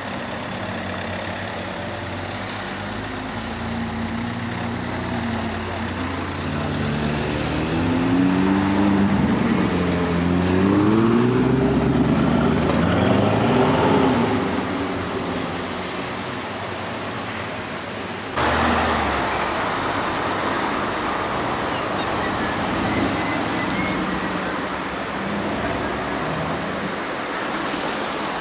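Bugatti Chiron's quad-turbo W16 engine accelerating away, its pitch rising and falling through several sweeps, loudest around the middle. About two-thirds of the way through it gives way abruptly to steady street traffic noise.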